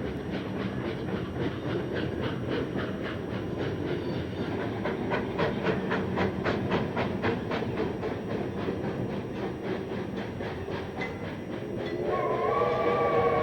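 Santa Fe 4-8-4 Northern steam locomotive working upgrade, its exhaust beating in a fast, even rhythm of about four or five beats a second. Near the end its chime whistle starts to sound, a wavering chord of several notes.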